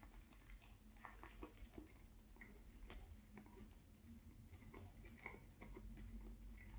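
Faint close-up chewing of a chicken and cheese sub sandwich: soft, irregular mouth clicks and squelches.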